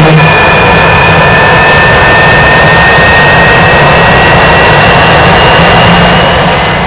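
Rolls-Royce Viper C201 turbojet engine running, a steady loud roar with a high-pitched whine that creeps slowly upward in pitch. The sound fades away near the end.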